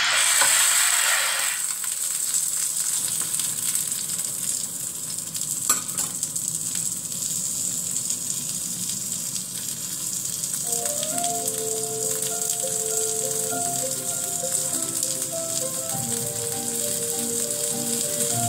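Beef patty sizzling steadily in a frying pan, louder for the first second and a half as it is turned over with a spatula. One sharp click a little under six seconds in, and soft background music comes in from about eleven seconds.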